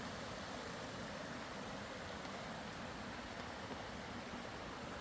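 Steady water noise: an even hiss that holds level throughout.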